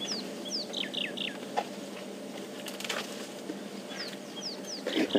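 A bird calling in two bursts of quick, falling whistled notes, one at the start and another about four seconds in. Beneath it runs a steady low hum, with a few faint clicks and a louder low knock near the end.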